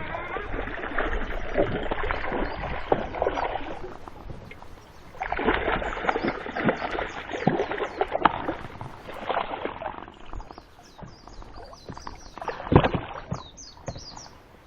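Canoe paddle strokes splashing and dripping in the water, in two spells with a short lull between, and a sharp knock near the end. Small birds chirp from about halfway.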